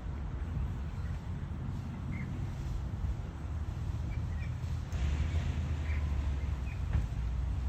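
A few short, faint bird chirps, spread out, over a steady low rumble that grows louder about five seconds in.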